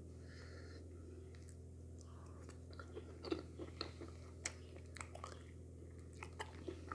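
Close-miked mouth sounds of eating okra soup and wheat fufu by hand: wet chewing with irregular sharp clicks and smacks. These become busy from about two and a half seconds in, over a steady low hum.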